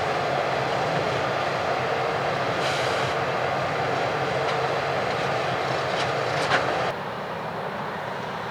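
Heavy farm harvest machinery running steadily, a dense engine and machine noise. A sharp click comes about six and a half seconds in. Just before the end, the sound drops suddenly to a quieter, duller running noise.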